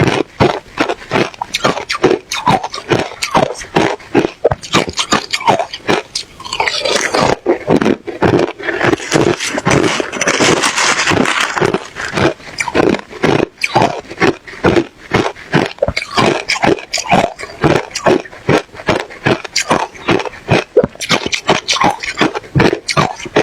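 A person chewing ice close to the microphone: rapid crunchy bites, several a second, with a stretch of denser, continuous crunching about a third of the way in.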